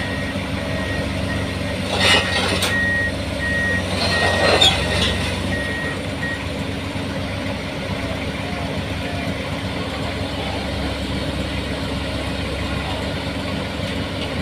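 Excavator's diesel engine running steadily while its travel alarm beeps repeatedly for the first several seconds, with two loud knocks, one about two seconds in and one about four and a half seconds in.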